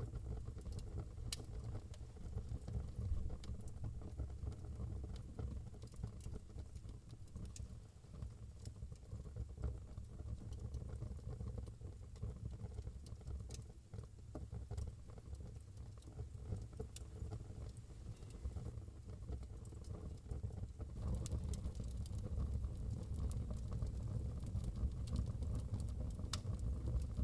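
Wood fire burning in a fireplace: a steady low rumble with scattered sharp crackles and pops, a little louder over the last six seconds.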